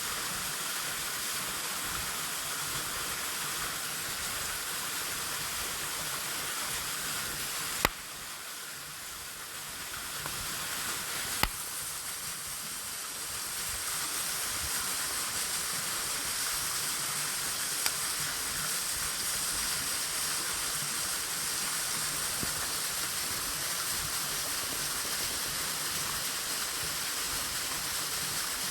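Waterfall rushing steadily, with three short sharp clicks. The rush dips briefly after the first click and then builds back up.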